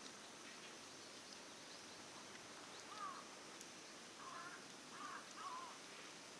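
A bird giving a few short calls, one about three seconds in and a cluster of three in the last two seconds, over a steady faint hiss.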